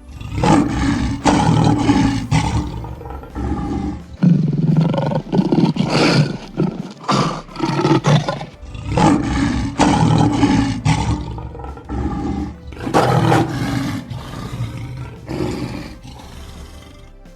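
A large animal's loud calls, repeated about five times with short gaps between them.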